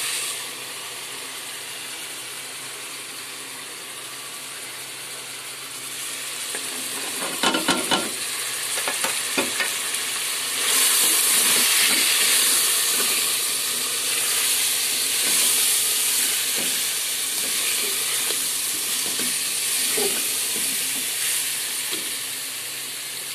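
Beef sizzling in hot ghee in a pressure cooker while it is stirred with a wooden spoon. A cluster of knocks comes about seven to nine seconds in, and the sizzling grows louder about eleven seconds in.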